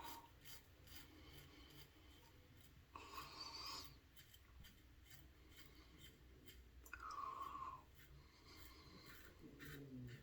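Gillette Red Tip safety razor scraping through stubble in short strokes, a faint crackling rasp of whiskers being cut.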